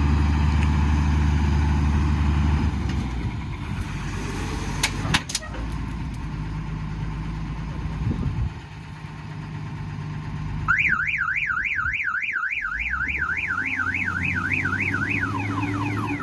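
Heavy diesel engine running, loud for the first few seconds and then easing to a lower level. About two-thirds of the way in, a vehicle's electronic alarm or horn starts, warbling up and down about three times a second, then changes to quick repeated falling sweeps near the end.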